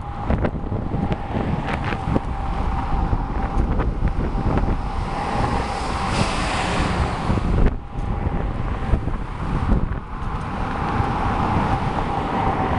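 Wind buffeting the microphone on a moving bicycle, a steady low rumble with scattered small knocks. A faint steady whine runs under it, breaking off briefly about halfway, and the rush swells brighter just before that.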